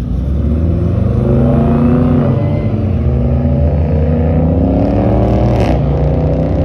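Car engine accelerating hard away, its pitch climbing steadily. About five and a half seconds in the pitch drops briefly with a sharp crack, then climbs again.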